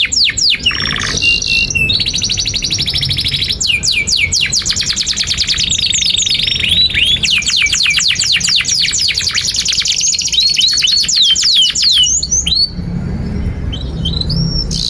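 Domestic canary singing a long, unbroken song of fast trills: rapid runs of short, high, downward-sweeping whistled notes that change rhythm from one run to the next. Near the end the song thins out to a few scattered notes. A low hum runs underneath.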